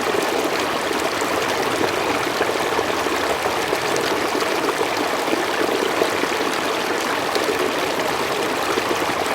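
Forest stream running over rocks, a steady rushing and trickling of water with small splashes.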